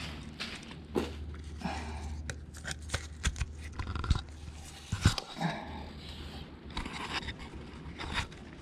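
Irregular light clicks and knocks of a damaged engine piston being handled and turned over for inspection, with a steady low hum underneath.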